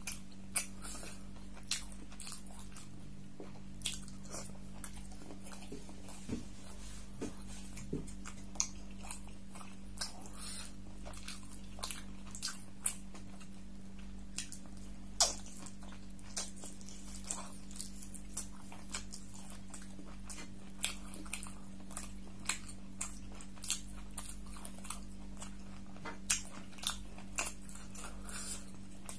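Close-miked chewing of beef curry: irregular wet mouth clicks and smacks, over a steady low hum.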